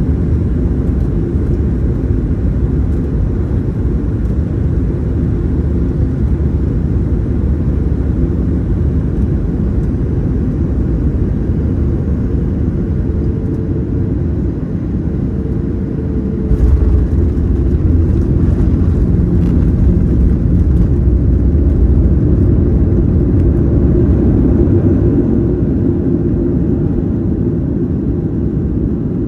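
Cabin noise inside a Boeing 737-900ER: a loud, steady rumble of engines and airflow. A little past halfway it jumps suddenly louder, with brief rattling, and stays louder for several seconds.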